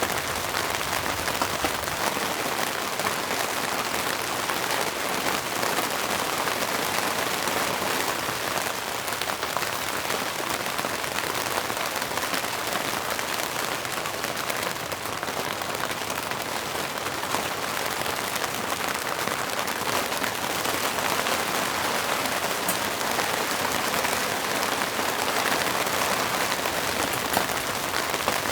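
Steady, heavy rain falling without a break.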